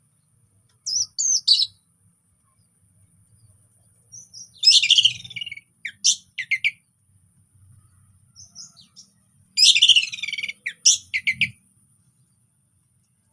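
Orange-headed thrush singing: three short bursts of quick, varied high notes, about a second in, around five seconds in and around ten seconds in, with short pauses between.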